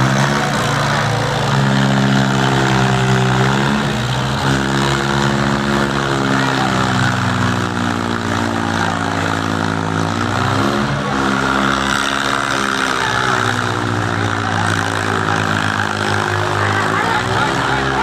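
Diesel tractor engines running hard under heavy load in a tractor tug-of-war. The engine note sags and picks up again a few times.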